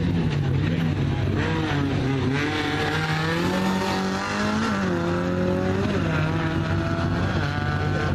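Opel Manta GT/E rally car's four-cylinder engine, heard from a distance, driven hard with its pitch repeatedly climbing and dropping as the car accelerates, shifts and slows for the chicane.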